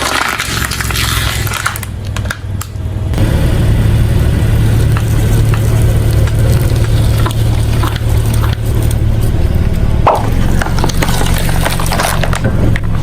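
A car engine running steadily at low revs, with scattered crunches and cracks of objects being crushed under the tyres; a noisy scraping crunch opens it, and the engine hum comes up about three seconds in.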